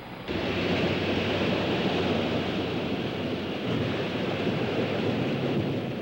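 A loud, steady rushing noise that starts abruptly and fades away near the end.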